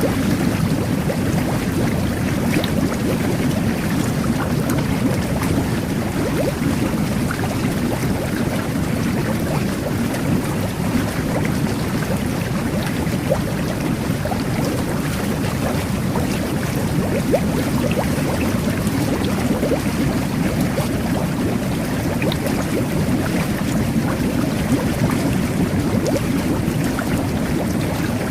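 Jet bath running: water jets churning and bubbling steadily, with small bubble pops scattered throughout.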